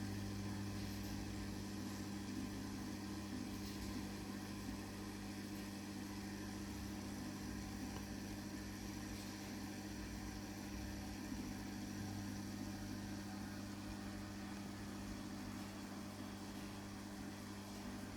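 Aquarium equipment humming steadily, with a faint hiss over the hum.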